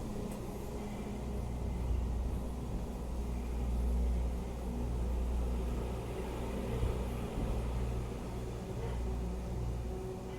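R62A subway train running through the tunnel: a steady low rumble with faint humming tones, swelling and easing slightly.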